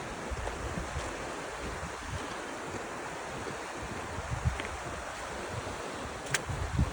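Wind blowing steadily, with low uneven buffeting on the microphone and a few sharp clicks near the end.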